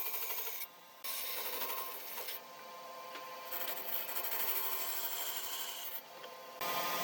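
A tool scraping and rubbing over wood, in short stretches that change abruptly.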